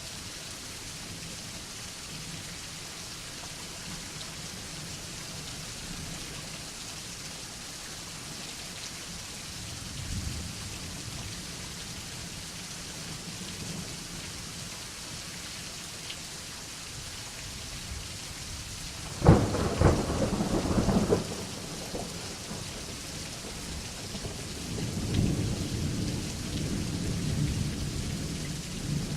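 Steady rain falling, with a faint low rumble of thunder about ten seconds in. About two-thirds of the way through a sharp, loud thunderclap crackles for about two seconds, and near the end a longer rolling rumble of thunder follows.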